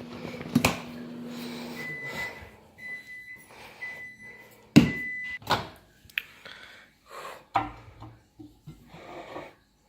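Microwave oven finishing its cycle: its running hum stops, it beeps four times about a second apart, and then its door is opened with a loud clunk, followed by knocks and clatter of a dish being handled.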